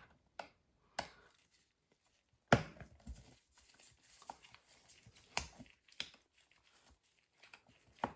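Scattered small clicks and taps of hand tools and tiny screws being handled, with one sharper knock about two and a half seconds in.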